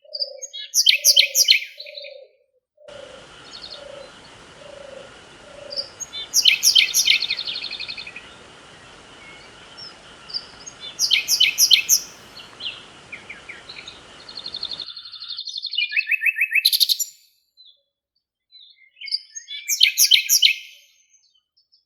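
Birdsong: a bird repeats a short burst of rapid high notes five times, about every four to five seconds, while a lower hooting call repeats about twice a second for the first five seconds. A steady hiss with faint steady tones starts about three seconds in and cuts off suddenly near fifteen seconds.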